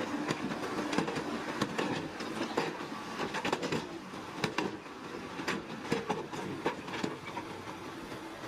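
Heavy construction machinery working on rocky ground: an engine running under a dense run of irregular clanks and knocks.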